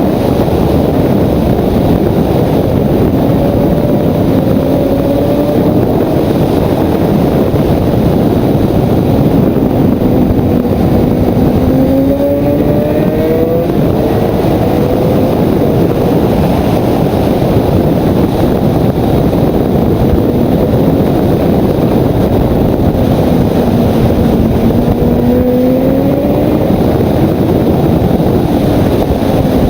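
Sportbike engine pulling at speed, heard onboard under heavy wind rush on the microphone; its pitch climbs and falls slowly a few times as the rider accelerates and eases off.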